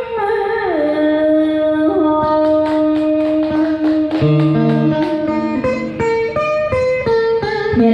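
Cải lương singing with guitar accompaniment: a singer holds the long drawn-out syllables of "tâm hồn", the held note stepping down in pitch about a second in, while a guitar plucks a run of notes under it from about two seconds on.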